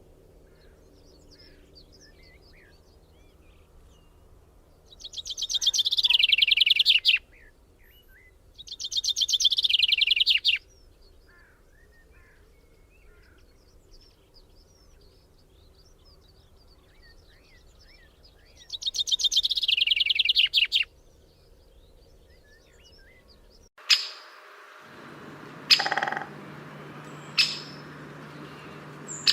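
Bird singing three times, each song a rapid trill of about two seconds that falls in pitch. About 24 s in the sound changes abruptly to a steady low hum with a few short sharp high chirps.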